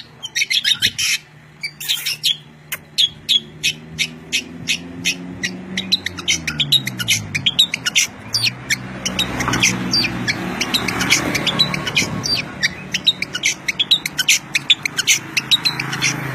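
A songbird calling without pause in rapid, sharp chirps, about three a second, over a low hum whose pitch glides down about halfway through.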